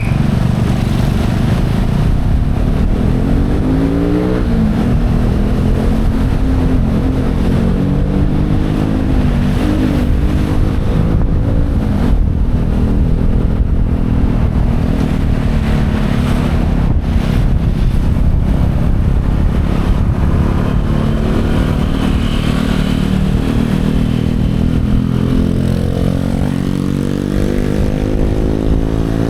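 Motorcycle engine running on the road, its pitch rising and falling several times as the rider accelerates and eases off, over a steady low rumble.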